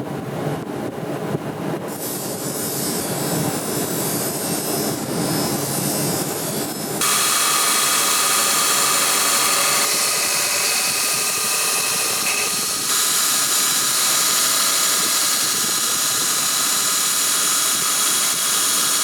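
A steady, rough low roar, then after a sudden cut about seven seconds in, a power grinder working metal: a bright, high hiss with a steady whine, shifting abruptly twice more.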